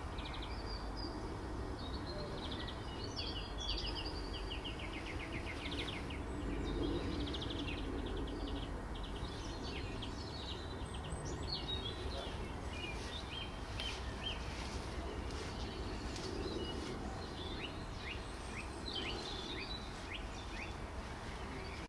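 Small birds chirping and trilling, with many short calls and a few rapid trills, over a steady low background rumble.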